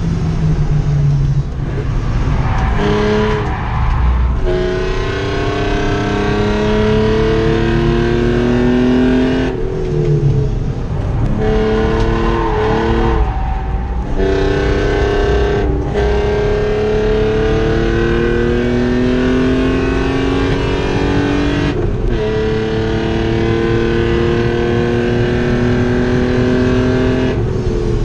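BMW 323ti's 2.5-litre straight-six engine, heard from inside the cabin, pulling hard at full throttle and rising in pitch through the gears. The climbs are broken by several short drops for gear changes and lifts into corners, and there is a long pull near the end.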